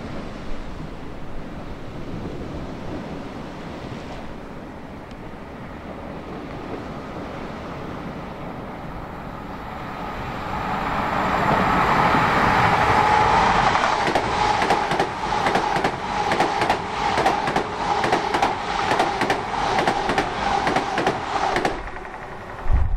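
Great Western Railway Hitachi Intercity Express Train running past at speed on diesel power. Its sound swells from about ten seconds in to a steady hum, with a quick run of wheel clicks on the rails as the carriages go by, then cuts off near the end. Before it, wind and sea wash.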